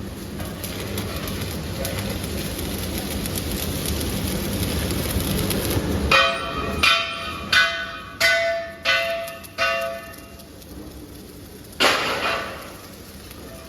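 Steady workshop machine noise for about six seconds, then steel being struck: six sharp blows about two-thirds of a second apart, each ringing like a bell, and one more blow near the end.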